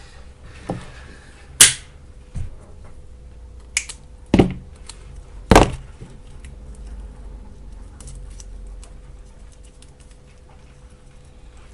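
Sharp clicks and knocks of tools and parts being handled on a workbench, about six in the first half, the loudest two a second and four seconds apart. A low steady hum runs underneath.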